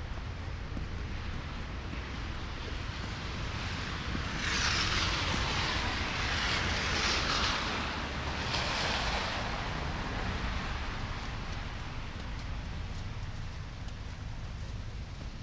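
A vehicle passing, its tyres hissing on the snow-covered road for about five seconds, over a steady low rumble of street noise and wind.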